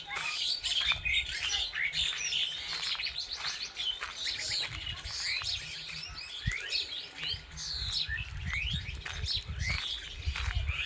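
Several forest birds chirping and calling over one another in a dense chorus of short notes and quick falling whistles, with a low rumble underneath that grows louder near the end.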